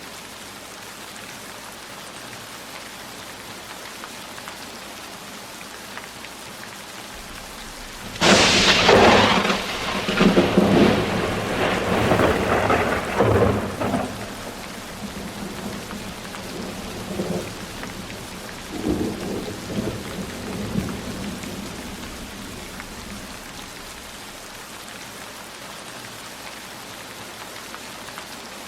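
Steady heavy rain falling, with a sudden loud thunderclap about eight seconds in that rolls into rumbling for several seconds and dies away in a few weaker rumbles, before the rain carries on alone.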